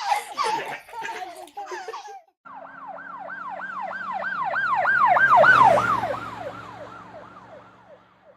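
Children laughing briefly, then an emergency vehicle siren in a fast yelp of quick falling sweeps, about three a second. It grows louder and then fades away with its pitch dropping, as a vehicle driving past.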